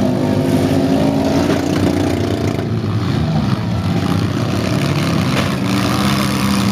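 Several demolition-derby minivan and small-pickup engines running and revving at once, their pitch rising and falling as the cars accelerate.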